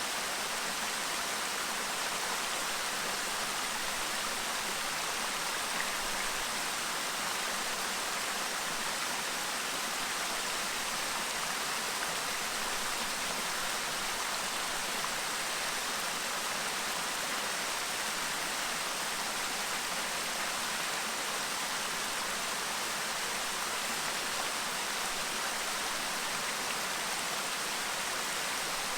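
Clear stream babbling, a steady rush of water that does not change.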